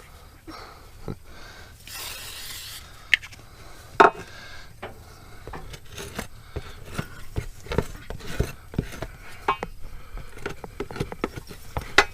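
Hand work on a rubber inner tube: irregular rubbing and rasping scrapes with small clicks, two sharp knocks near the start and a short hiss about two seconds in, as the area around the valve is cleaned and buffed for a patch.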